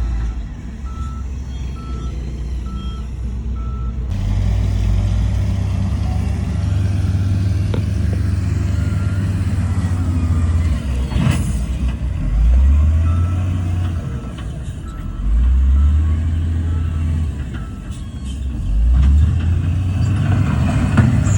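Diesel engines of heavy earthmoving machinery running, with several revving surges. A reversing alarm beeps at an even pace near the start and again faintly partway through.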